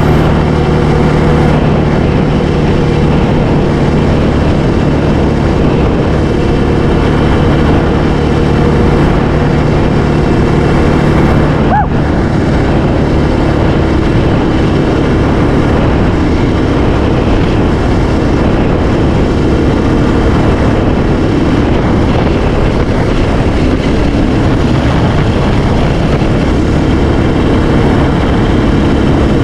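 Yamaha Raptor 700R quad's single-cylinder four-stroke engine running steadily while being ridden along a sandy trail, its pitch shifting a little with the throttle.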